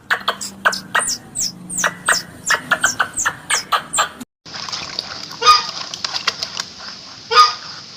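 Animal calls from two back-to-back recordings. First comes a quick run of short, high, falling chirps mixed with sharp clicks. After a brief break there is a steady high buzz, with a few louder calls over it about a second and a half apart.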